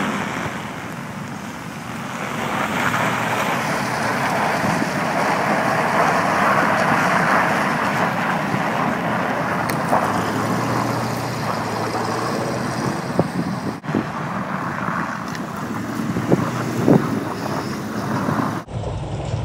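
Range Rover P38 driving over snow, its engine running steadily, with a few knocks in the later part.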